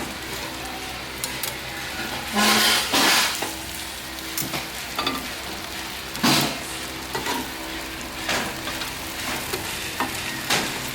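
Chicken sizzling on a barbecue grill: a steady hiss with several louder hissing bursts, the longest about two seconds in.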